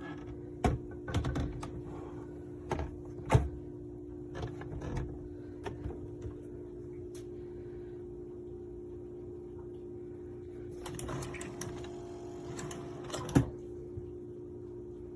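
Keurig K-Supreme Plus single-serve coffee maker brewing: its pump runs with a steady hum, with scattered clicks and knocks, the loudest about three seconds in and again near the end.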